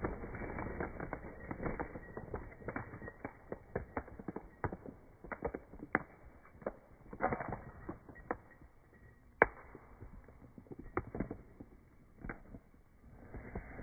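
Irregular mechanical clicks, knocks and creaks, like parts or tools being handled, with one sharp knock about nine and a half seconds in.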